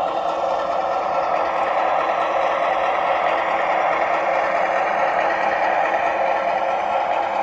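O gauge model train running on the layout's track: a steady mechanical hum and rumble of locomotive and wheels, with no pauses or sudden sounds.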